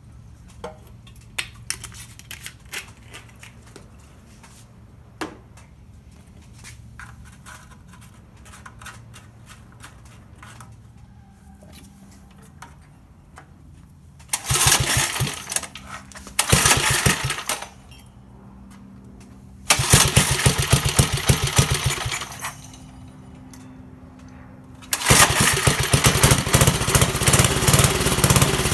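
Clicks and knocks of handling, then the 1969 Bonanza mini bike's small engine is started on a freshly rebuilt carburetor. It catches and runs briefly twice, runs for about two seconds and dies, then starts again at about 25 seconds and keeps running.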